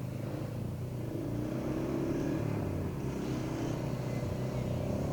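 A motor vehicle's engine running steadily and slowly growing louder as it approaches.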